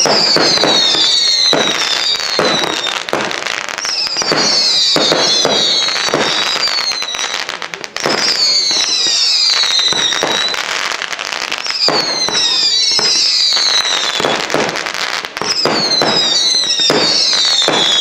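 Fireworks display: volleys of whistling fireworks, several high whistles at once each falling in pitch, repeating about every four seconds over a constant run of bangs and crackling.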